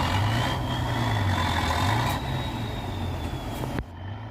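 Tatra truck-trial truck's engine running hard, with a high whine that rises and then falls in pitch. The sound drops away abruptly near the end.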